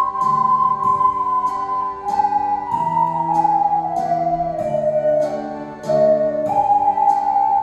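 A group of ocarinas playing a slow, legato melody together in pure, flute-like held notes, with a falling phrase midway, over a chordal accompaniment with regular struck notes.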